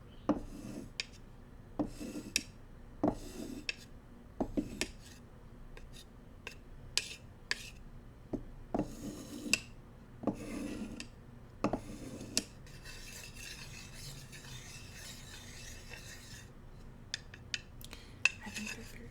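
Bamboo cooking utensils being tapped and scraped: a run of sharp taps and short rasping strokes. After that comes about four seconds of steady rasping rubbing, then a few light clicks near the end.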